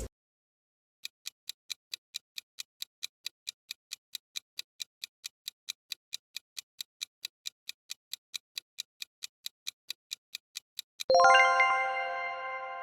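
Countdown-timer sound effect: sharp clock-like ticks, about four a second for some ten seconds, then a chime that rings out and slowly fades as the time runs out.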